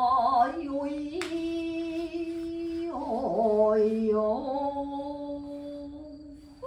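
Yamato-gaku song: a woman's voice sings long drawn-out notes with vibrato, and a sharp plucked shamisen note sounds about a second in.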